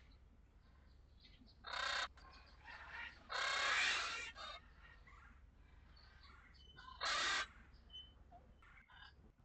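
A crow cawing: three harsh calls, a short one about two seconds in, a longer drawn-out one a second and a half later, and another short one near the end. Faint small-bird chirps sound between the caws.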